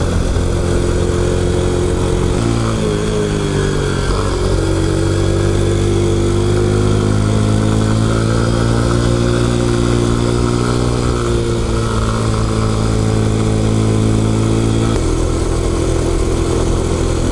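Single-cylinder four-stroke engine of a stock newspaper-delivery Honda Super Cub running under way. Its pitch shifts about two and a half seconds in, then climbs slowly as the bike pulls, and changes again near the end.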